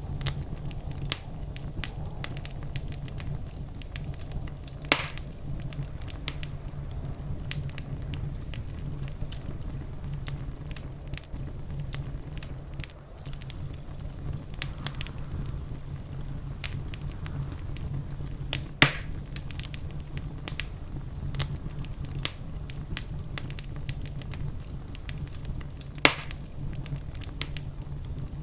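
Fireplace fire crackling with a steady scatter of small snaps and three louder pops, over a steady low rumble.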